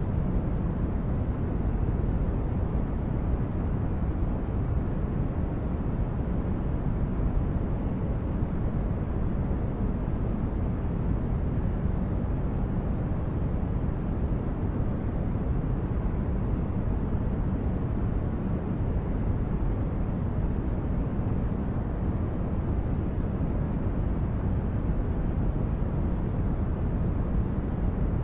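Sci-fi starship corridor ambience: a steady, deep noise in the manner of brown noise, heaviest in the bass, with no distinct events or changes.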